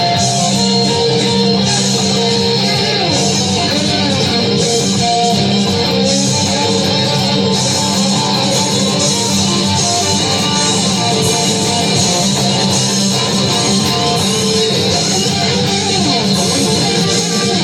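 Rock music on electric guitars, with a lead guitar bending sustained notes over a steady, full-band backing.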